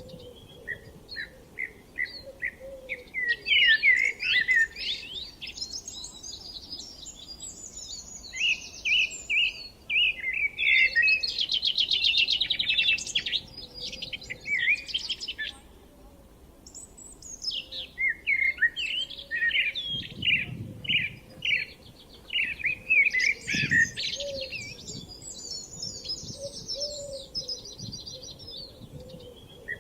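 Songbirds singing: runs of short repeated chirps and fast, varied trilling phrases, coming in bursts a few seconds apart. A brief low rumble comes in about twenty seconds in.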